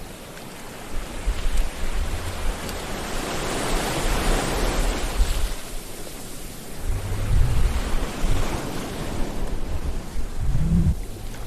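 Sea waves breaking and washing on the shore, a continuous hiss of surf that swells about four seconds in and fades, with a deeper rumbling surge of a breaker later on.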